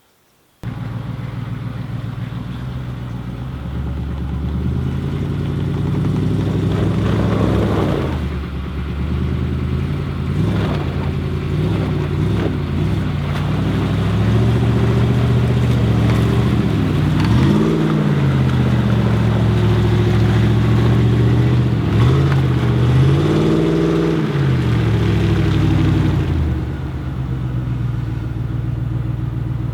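Truck engines revving under load during a mud recovery pull with a kinetic rope, starting abruptly and climbing over the first few seconds. The revs rise and fall several times, with the strongest swells about two-thirds of the way in, then drop to a lower steady running near the end.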